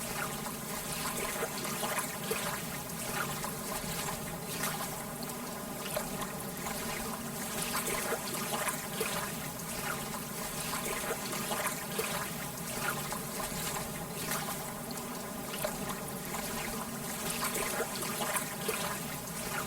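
Lake water lapping gently at the shore: a steady wash of water with many small, soft splashes.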